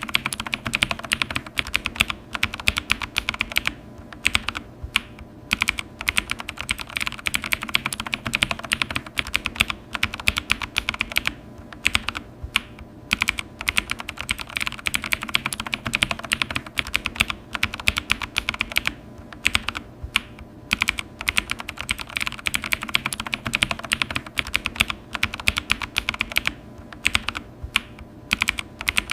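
Computer keyboard being typed on quickly and continuously, a rapid run of key clicks broken by a few brief pauses.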